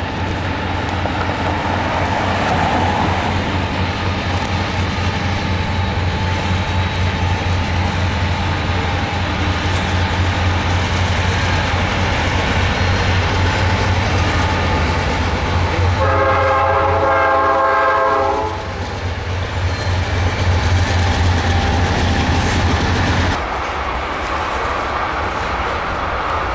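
Norfolk Southern diesel freight locomotive passing with a steady low engine rumble. About sixteen seconds in, its air horn sounds one blast of about two and a half seconds. Near the end the engine sound drops away, leaving the rolling noise of freight cars going by on the rails.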